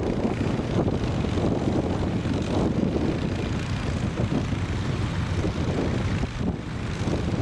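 An engine drones steadily, mixed with wind buffeting the microphone.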